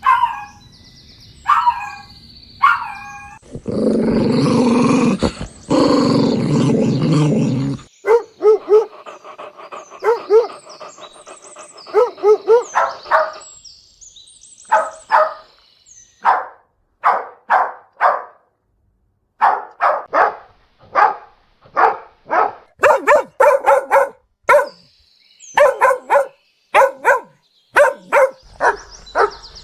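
Puppies barking and yipping in many short, sharp bursts, with a loud, rough, noisy stretch of about four seconds a few seconds in.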